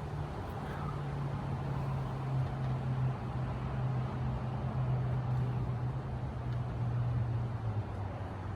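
A steady low motor hum over a hiss of background noise, fading out near the end.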